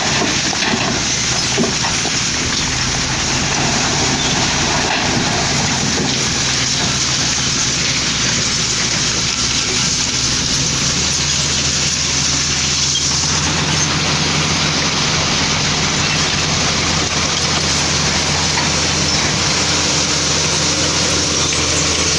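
Heavy diesel construction machinery working: engines running steadily under a dense, continuous mechanical noise. The low engine note grows stronger about halfway through.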